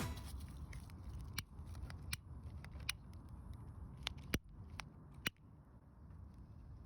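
Fire crackling: a faint low rumble with a handful of sharp, irregular pops, the loudest about four seconds in.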